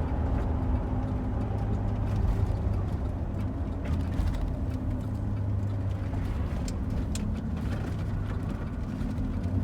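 Steady road and engine noise inside a moving vehicle's cabin: a constant low hum with rumble and a few faint ticks and rattles.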